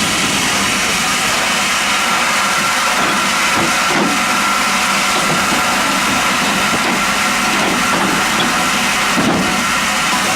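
MEBOR band sawmill running: a loud, steady noise with a faint high, even whine.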